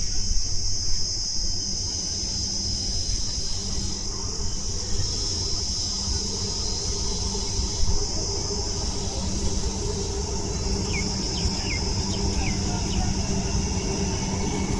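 Steady, high-pitched insect drone over a low, steady rumble, with a few short chirps near the end.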